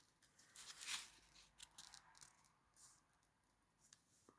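Quiet rustling and handling of paper, with a few brief crinkles; the clearest comes about a second in.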